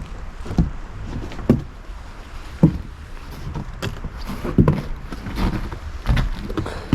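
Footsteps of someone walking, irregular thuds and scuffs every half second to a second, over a low rumble.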